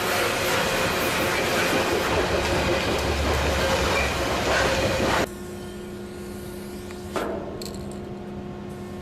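Train running past with steady metallic squeal tones over a rolling rumble, cut off suddenly about five seconds in. It gives way to a much quieter steady hum, with a short hiss about seven seconds in.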